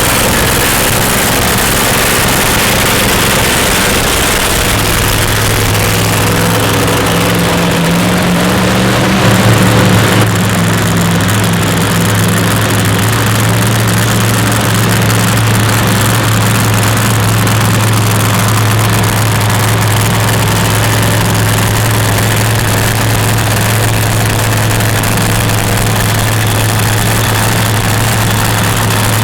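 Pulling truck's engine running steadily at one pitch, with a deep constant hum. It gets briefly louder about nine seconds in.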